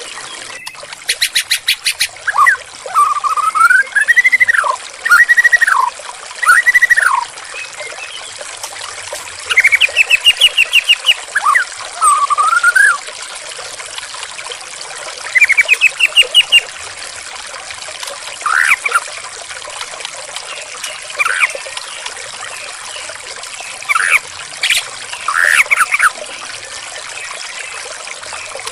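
White-rumped shama singing in separate phrases of whistled notes that swoop up and down, mixed with quick stuttering runs of repeated notes, over steady trickling water.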